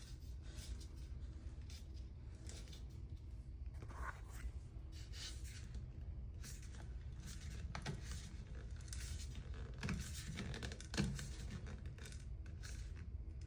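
A shower head being screwed by hand onto a Teflon-taped shower arm: faint scraping and clicking from the threads and handling, with a sharper knock about eleven seconds in, over a steady low hum.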